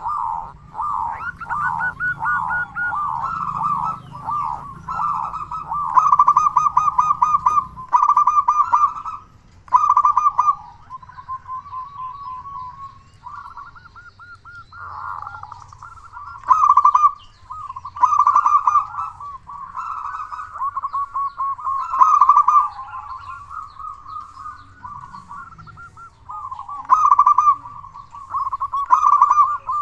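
Zebra dove (perkutut) cooing persistently in loud, rapid rolling series of staccato coos, repeated with short pauses.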